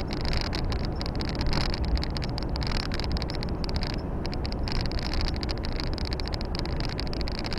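Volvo FH 460 truck's 13-litre six-cylinder diesel heard from inside the cab while driving: a steady low engine drone with road and wind noise and a constant hiss.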